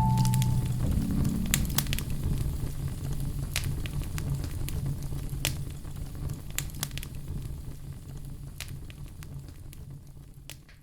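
Fireplace fire crackling, with irregular sharp pops over a low rumble, fading gradually toward the end.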